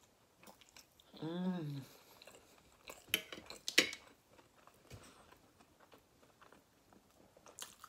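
Close-up mouth sounds of someone eating a soft boiled new potato: quiet chewing, a short hummed "mm" about a second in that rises and falls in pitch, and two sharp smacking clicks a little after three seconds, the second one the loudest.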